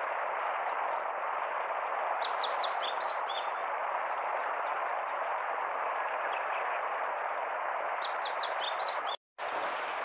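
A small bird calling from the shrubs in several short runs of quick high chirps, over a steady rushing background noise. The audio drops out for a moment near the end.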